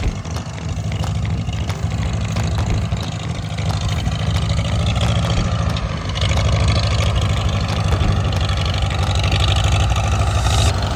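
An old Farmall tractor engine running steadily, getting louder about six seconds in.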